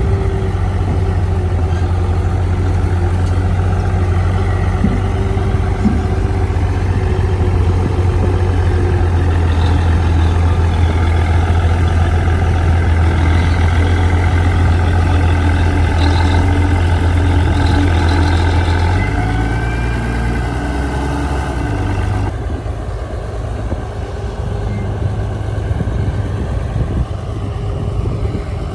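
Heavy diesel engine of earthmoving machinery running with a steady low drone; the drone changes pitch about 19 seconds in and the sound gets a little quieter after about 22 seconds.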